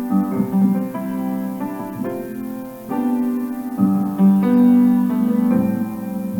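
Piano music: sustained chords changing about once a second.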